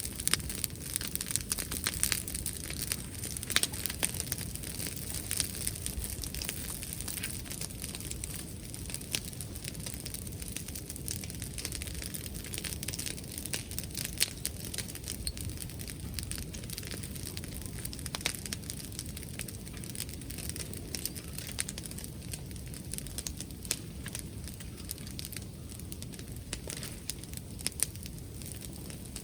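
Wood bonfire crackling, with frequent irregular sharp pops and snaps.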